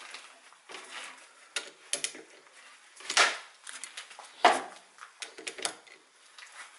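Irregular metallic clinks and clanks of work on a lathe chuck and its adapter plate, with two louder knocks about three and four and a half seconds in.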